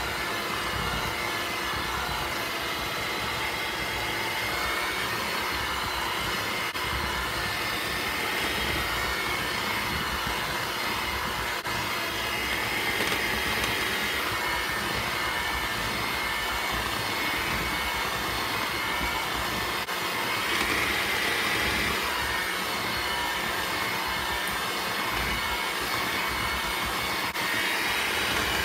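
Electric mixer running steadily on low speed, its beaters working stiff shortbread cookie dough as the flour mixture goes in.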